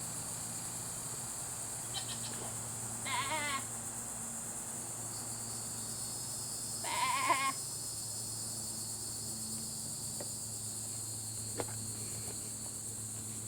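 Goat bleating twice, a few seconds apart, each a short wavering call.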